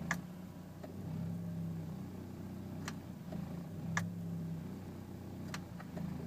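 BMW E46 inline-six idling unevenly in drive, its hum wavering every second or two, with a few short sharp clicks. The RPMs sag under the load of the passenger window motor held against the closed window, part of a rough-idle problem.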